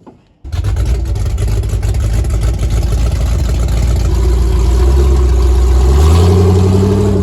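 Chevy V8 engine starting abruptly about half a second in and then running steadily, with the revs rising briefly near the end.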